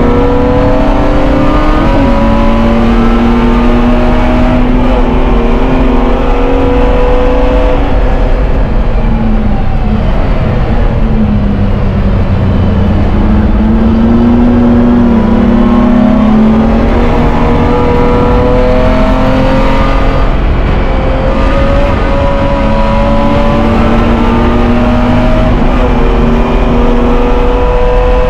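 BMW E30 race car engine heard from inside the stripped cockpit, run hard under racing load. The pitch climbs through the revs again and again and drops back at gear changes and corner braking.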